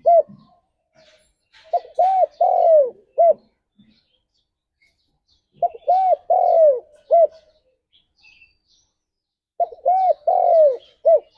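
Spotted dove (tekukur) cooing: three phrases about four seconds apart. Each phrase has about four notes, with a longer falling coo in the middle.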